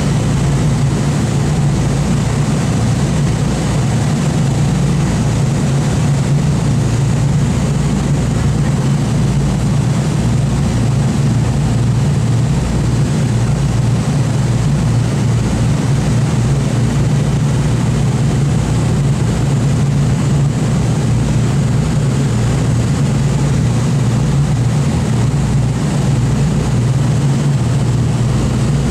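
Steady, loud drone of the Boeing B-29 'FiFi's four Wright R-3350 radial engines running at constant power, with no change in pitch.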